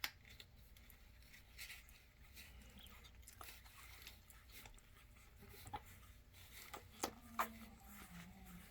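Faint suckling of nursing American Bully puppies: soft wet clicks and smacks, with a few sharper clicks about seven seconds in, then a short low whimper.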